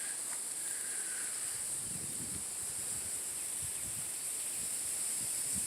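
Steady high-pitched insect chorus, a continuous even buzz that holds throughout.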